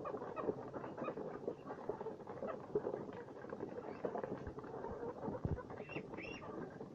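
Poultry pecking and eating from a feed mix: a dense, continuous patter of small pecks and rustles, with two short high peeps about six seconds in.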